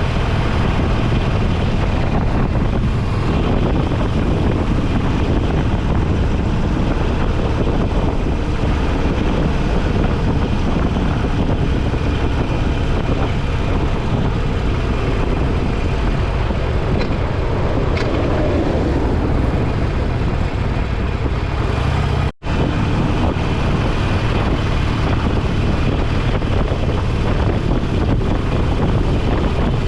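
Motorcycle underway, heard from its onboard camera: steady wind rush over the microphone mixed with engine and road noise, broken by a split-second dropout about two-thirds of the way through.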